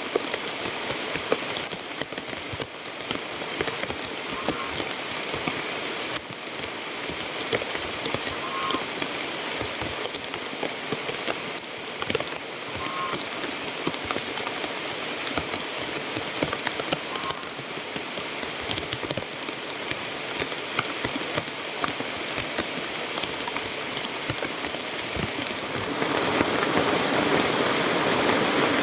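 Steady heavy rain pattering down, which grows louder near the end.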